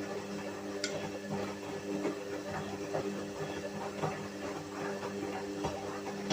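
Whirlpool washing machine running: a steady motor hum with irregular light knocks and clicks.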